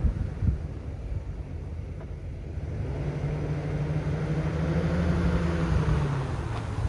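2011 Chevy Silverado 2500 HD pickup's engine running, with two short thumps at the start. About three seconds in it is revved up and held at a higher steady speed for about three seconds, then drops back near the end.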